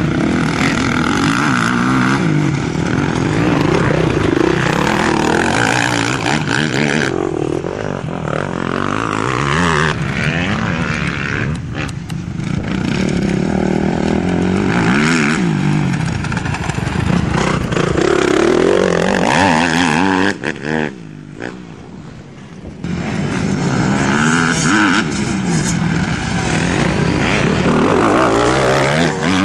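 Motocross bike engines revving hard along a dirt-track straight, the pitch climbing and dropping again and again as the riders accelerate and shift. The engines fall quieter for a couple of seconds about two-thirds of the way through.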